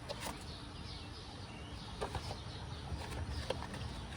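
Birds chirping faintly in the background, with a few light clicks and taps from hands opening the air filter cover on a garden tractor engine.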